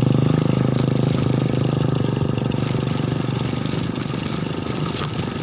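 Rusi motorcycle engine running at low speed in third gear, its note steady and slowly easing off, with a few faint clicks.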